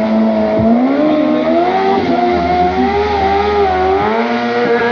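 Sportbike engine revving, its pitch rising and falling repeatedly as the throttle is worked.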